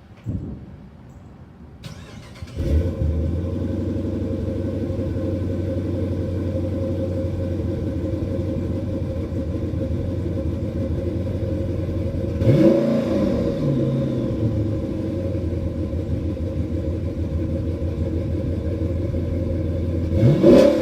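A 2014 Dodge Charger R/T's 5.7-litre HEMI V8 is started from cold. The starter cranks briefly, and the engine catches with a flare about two and a half seconds in, then settles into a steady fast cold idle. It is revved briefly twice, about halfway through and near the end.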